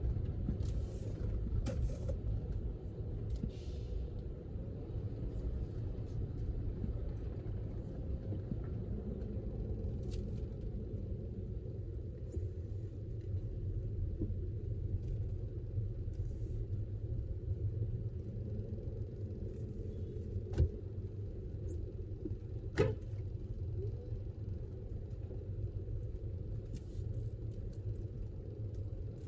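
Steady low rumble of a car moving in traffic, with two short sharp clicks about two seconds apart in the last third.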